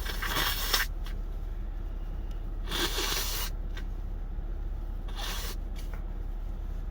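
Three short rustling scrapes, each under a second long, over a steady low hum.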